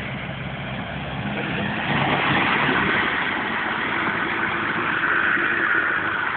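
A 4x4 vehicle's engine running, with a louder rushing hiss rising over it from about two seconds in.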